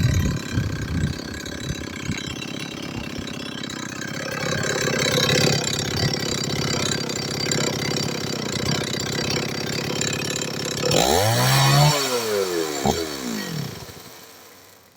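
STIHL 024 AV two-stroke chainsaw engine running. About eleven seconds in it is revved once, its pitch rising and then falling, and the sound then dies away as the engine stops.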